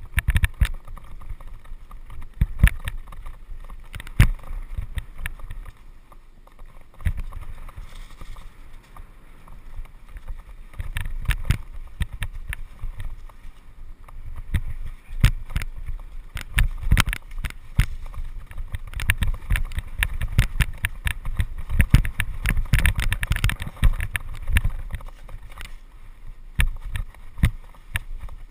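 Downhill mountain bike ridden fast over rough trail: constant rattling and sharp knocks of the bike over bumps and rocks over a low rumble of tyres on dirt, busiest in the second half.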